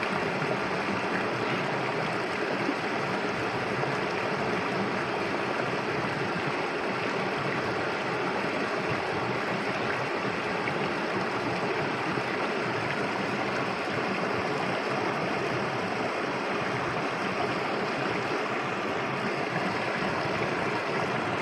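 Clear, shallow stream flowing in a steady, even rush of water.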